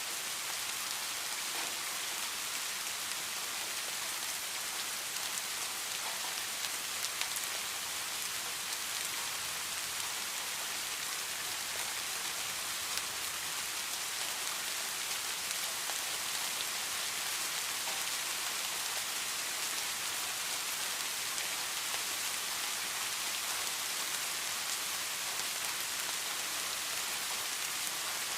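Heavy rain falling steadily: an even hiss of rain with scattered drop ticks.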